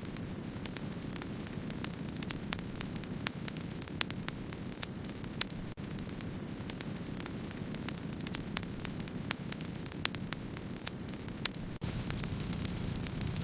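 Wood fire burning, with frequent sharp crackles and pops over a steady low rush of flame. The sound briefly drops out twice.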